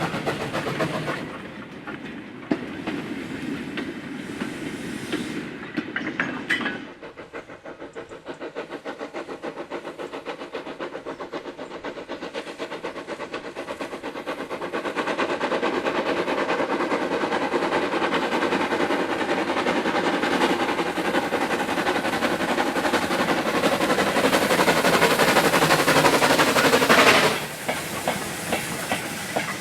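A train running on the rails, with fast, even rhythmic clatter. The clatter grows louder partway through, then cuts off suddenly near the end.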